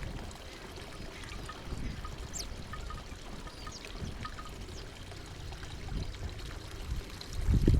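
Small songbirds at a feeder giving short, high chirps every second or so over a steady low rushing noise. A louder low rumble starts near the end.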